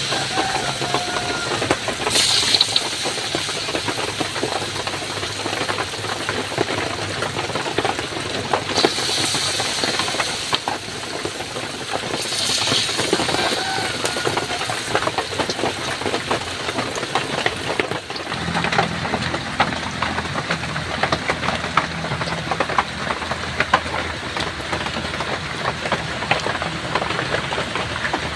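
Heavy rain falling steadily as a dense patter, with a few brief louder hissing swells in the first half. A low steady hum comes in a little past the middle.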